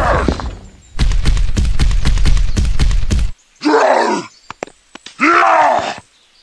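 A loud, rough noise with a low rumble and crackle lasts about two seconds and stops abruptly. Then two dubbed, strained groans of effort follow about a second apart, voiced like someone heaving at a heavy rock.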